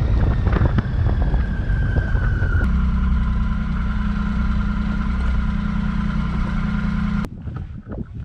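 Motorcycle engine running, changing to a steady, even note about two and a half seconds in, then cutting off suddenly a second before the end.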